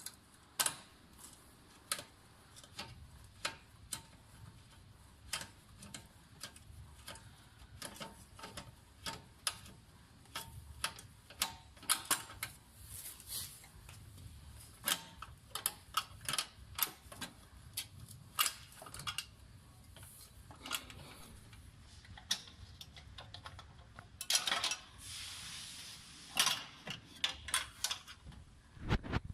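Irregular sharp clicks and knocks of hand tools and metal parts being handled during a snowmobile CVT drive-belt change, with a stretch of scraping and rustling a few seconds before the end.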